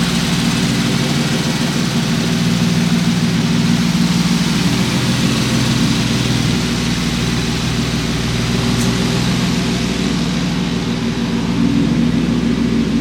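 Turbocharged Nissan G35's V6 engine running at a steady speed on a hub dyno, its note holding an even pitch.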